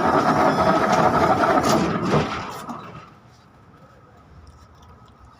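KTM-5M3 (71-605) tram running, heard from inside the car: a loud rumble with a faint steady whine, which fades away to a low hum about three seconds in.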